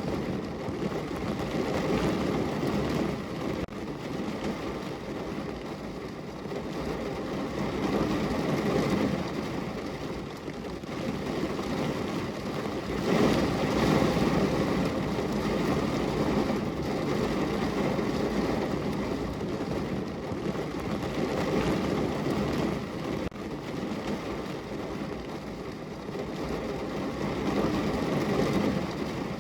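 Heavy rain falling on a car's roof and body, heard from inside the car: a dense, steady patter that swells and eases, loudest about halfway through.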